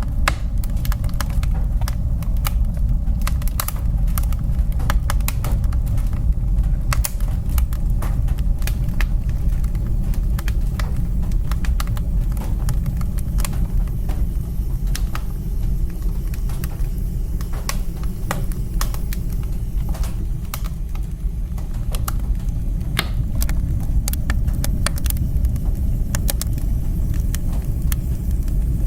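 Wood fire burning in a fireplace: a steady low rumble of the flames with many sharp, irregular crackles and pops throughout.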